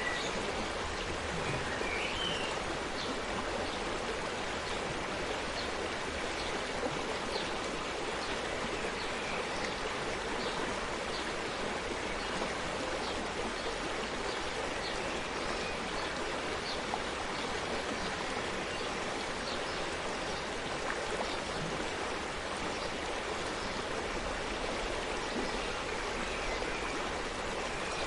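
Forest stream babbling steadily, water running over stones with small splashes and drips throughout. A couple of brief high chirps, likely birds, come about a second or two in.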